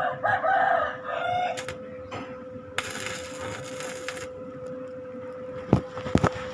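A rooster crowing once, about a second and a half long, over a steady motor hum. A short burst of rushing noise follows midway, and a few sharp knocks come near the end.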